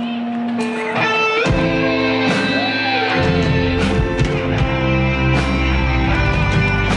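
Band music with electric guitar, as a song's intro; the low end fills in about a second and a half in and again around three seconds.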